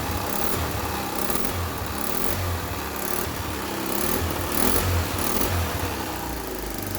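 Suzuki Let's 4 scooter's small four-stroke engine running after a piston replacement, its low hum pulsing unevenly.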